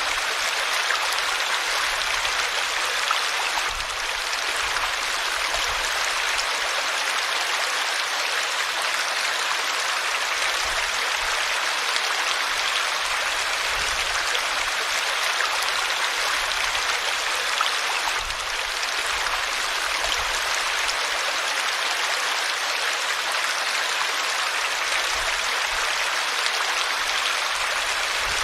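River water flowing and splashing over rocks: a steady, even rush of running water with no change in level.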